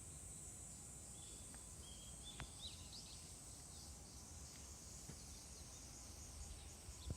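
Faint outdoor morning ambience: a steady high insect drone with a few short, faint bird chirps a couple of seconds in, over a low rumble of wind on the microphone.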